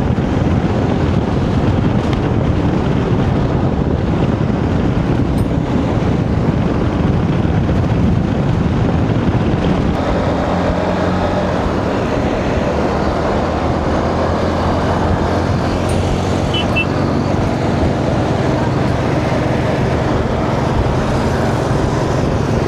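Motorcycle engine running steadily at road speed during a ride, with a constant rush of road and wind noise.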